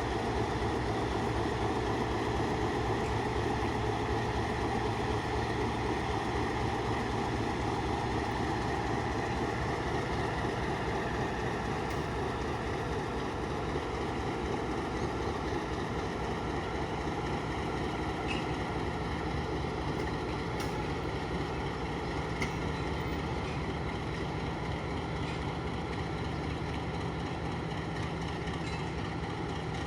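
Passenger train moving on the rails, a steady rumble of wheels and running gear that eases a little after about thirteen seconds.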